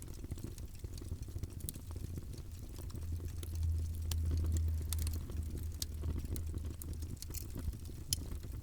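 Wood fire in a fireplace crackling, with scattered sharp pops over a low rumble that grows louder between about three and seven seconds in.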